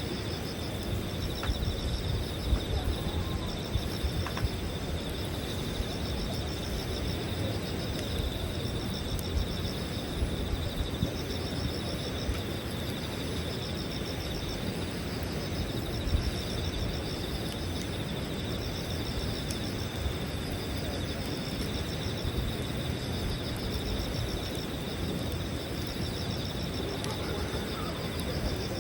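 Campfire crackling, with irregular sharp pops, over steady insect chirping that pulses continuously in the background.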